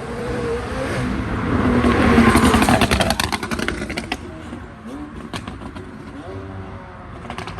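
A car accelerating hard past, its engine loudest about two seconds in and then fading away, with a quick run of crackles from the exhaust as it goes by.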